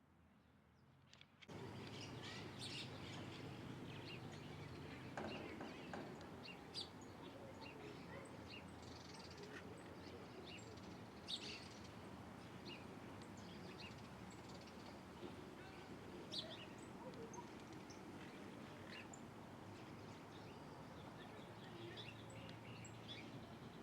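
Small birds giving short, scattered chirps over steady outdoor background noise, which starts abruptly about a second and a half in.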